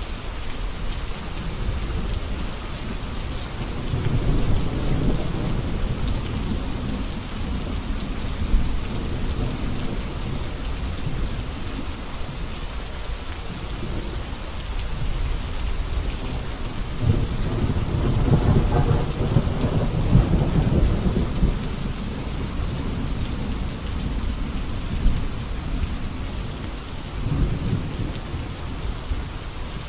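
Steady rain falling, with low rolling rumbles of thunder swelling and fading three times; the longest and loudest rumble is about two-thirds of the way through.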